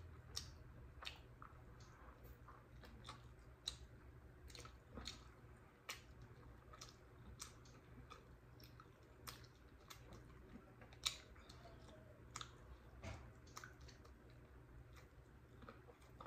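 Close-up mouth sounds of chewing and biting barbecued pork spare rib meat off the bone: quiet, scattered wet clicks, with one louder click about eleven seconds in.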